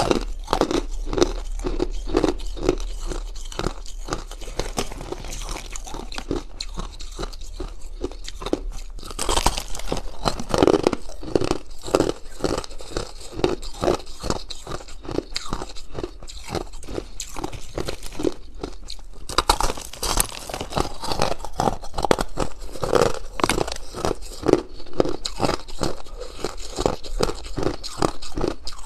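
Close-miked crunching of hard ice being chewed, a steady run of about two crunches a second. Louder, sharper cracks about a third and two-thirds of the way through sound like fresh bites into the ice.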